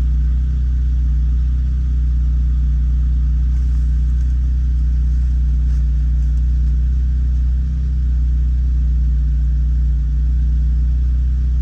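Lotus Elise's four-cylinder engine idling steadily after a cold start.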